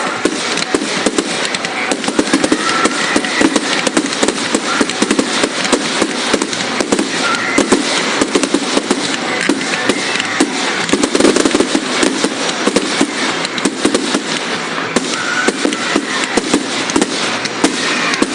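Fireworks display: a dense, continuous rattle of crackling and popping bangs, many every second.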